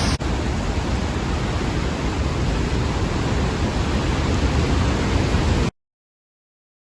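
The Lower Falls of the Yellowstone River at close range: a loud, steady rush of falling water that cuts off suddenly a little over two-thirds of the way through.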